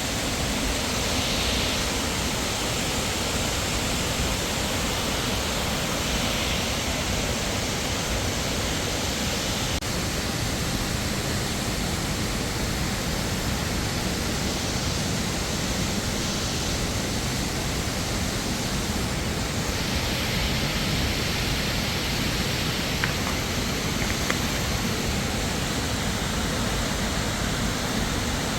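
Steady rushing of falling water, an even roar with no break, with two faint ticks near the end.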